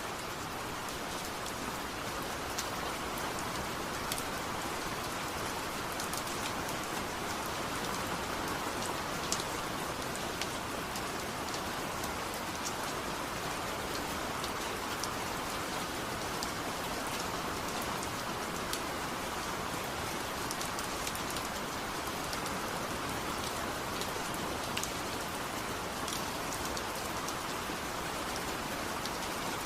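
Steady rain falling, an even hiss with scattered sharp ticks of drops striking a surface.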